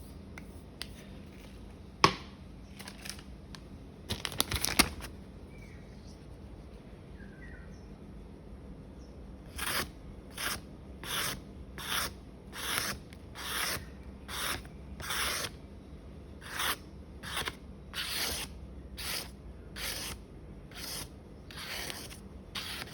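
Steel blade of a small Victorinox paring knife drawn in light, even strokes across a whetstone, about three scrapes every two seconds: finishing strokes to remove the burr from the edge. A single sharp click comes about two seconds in, and a short flurry of scrapes around four to five seconds in.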